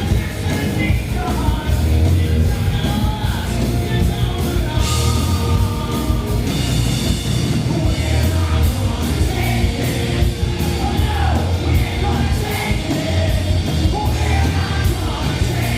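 Live rock band playing with a lead singer; the drums and bass are strong and pulsing underneath.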